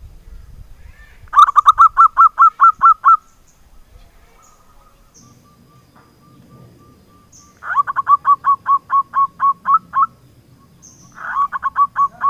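Zebra dove (perkutut) cooing in three bouts of rapid, evenly spaced staccato notes, about ten or more to a bout, with faint high chirps between the bouts.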